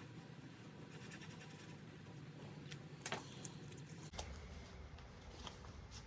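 Faint scratching of a coloured pen colouring in on paper, with a few light taps and clicks.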